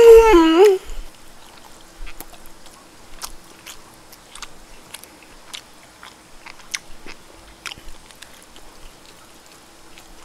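A person gives a loud drawn-out voiced "mmm" of tasting with a bending pitch, then chews a mouthful with soft, scattered wet mouth clicks over a faint steady hum.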